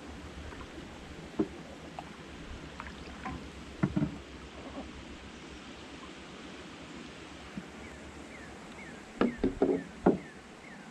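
Scattered knocks and bumps of gear being handled in a small fishing boat: a single knock, a double knock a few seconds later, and a quick cluster of them near the end, over a low steady rumble.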